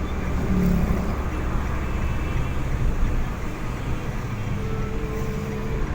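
Car driving along a road: steady engine hum and road noise.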